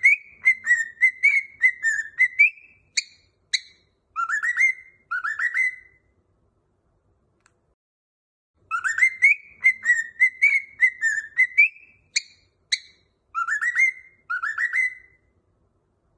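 A cockatiel whistling a short tune, a run of quick chirpy notes followed by a few sliding rising whistles. The same phrase comes twice, separated by a pause of about three seconds, as in a repeated whistle-training tune.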